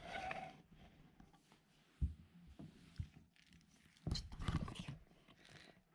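Faint indoor handling sounds: two soft knocks about a second apart, then a longer rustling, thumping burst lasting about a second.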